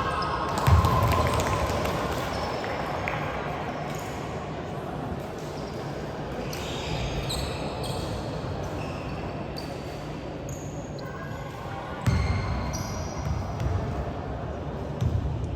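Gym noise from a basketball game in play: short high sneaker squeaks on the court, a few loud thuds of the ball, and voices calling out.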